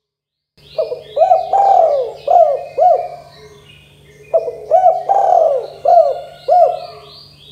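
Spotted dove (tekukur) cooing in two repeated phrases of five or six rolling coo notes each, with a pause of about a second between them. Small birds chirp faintly in the background.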